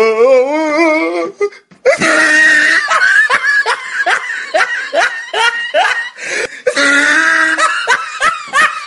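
Loud laughter, a quick run of high rising 'ha' sounds about three a second, with a short break near the middle. It opens with a long wavering drawn-out note.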